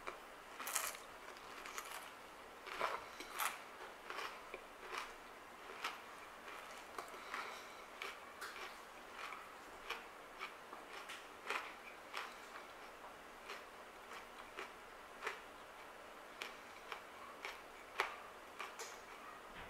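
Close-up chewing of crunchy dry Kashi GoLean Crunch chocolate cereal: irregular sharp crunches, about one or two a second.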